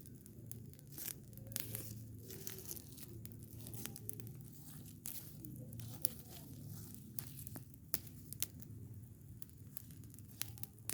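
Burning rubbish pile crackling, with irregular sharp pops and snaps.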